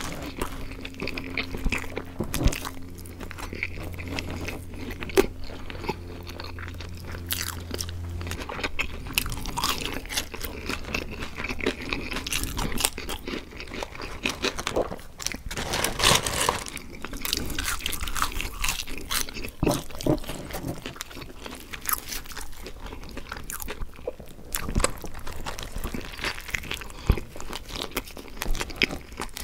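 Close-miked mouth sounds of eating: biting into and chewing burgers and french fries, a continuous run of small crunches and clicks, loudest about halfway through.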